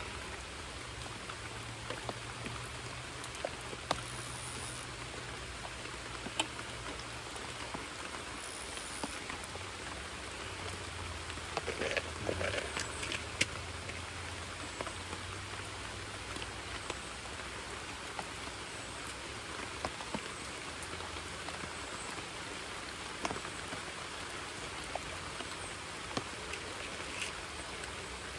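Steady rain falling on a creek's surface and the surrounding foliage, an even hiss with scattered sharp ticks of nearer drops and a brief rustle about twelve seconds in.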